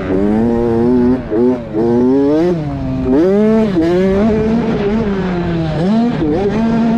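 Motocross dirt bike engine on a lap of the track, revving up and down as the throttle is opened and shut: quick on-off throttle blips between about one and two seconds in, a long rise from about three seconds, and a drop and pick-up near six seconds.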